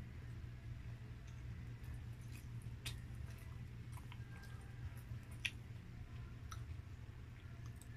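A person chewing a soft Fudgee Barr snack cake with the mouth closed: scattered small wet mouth clicks and squishes, the sharpest about five and a half seconds in, over a steady low hum.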